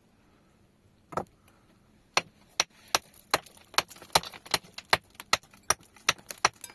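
Hand tool chopping: one sharp blow about a second in, then a quick run of sharp strikes, two or three a second.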